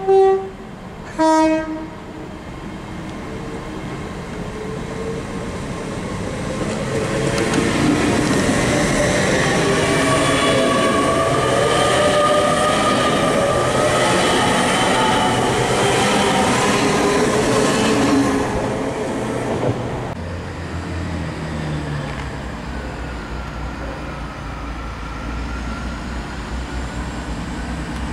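Two-tone horn of a GWR Hitachi IET: a high note ends just as a lower note sounds briefly. The train then passes alongside, its rumble and whine building over a few seconds, holding loud, then fading away about two-thirds of the way through. A quieter steady low hum remains after it.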